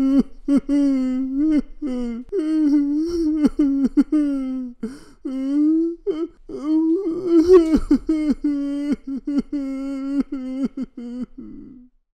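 Cartoon hippo character crying: a wordless, wailing voice broken into short sobs and whimpers, stopping shortly before the end.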